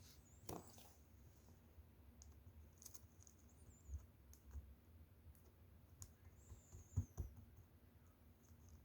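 Faint, scattered clicks and small pops of foam-ball slime with air bubbles being handled. The clearest pops come about half a second in and twice near seven seconds.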